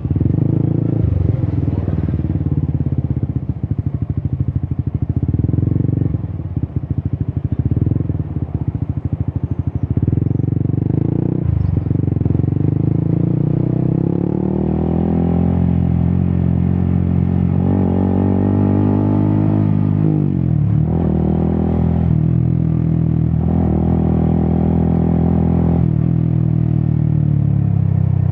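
Yamaha XSR 155's single-cylinder engine through an Akrapovic exhaust. For about the first ten seconds it runs low and choppy with a pulsing exhaust note. Then it pulls up through the revs, the pitch climbing and dropping back sharply a few times as it shifts up.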